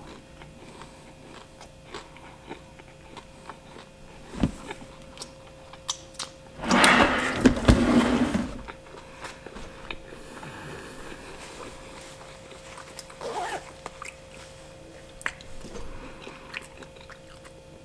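Mouth sounds of someone finishing a mouthful of pizza: chewing, lip smacks and finger licking, heard as scattered small clicks over a faint steady hum. About seven seconds in there is a louder noisy sound lasting nearly two seconds.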